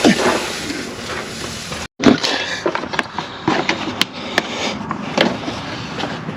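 Scattered knocks and clinks of tools and metal parts being handled, with the sound cutting out completely for a moment about two seconds in.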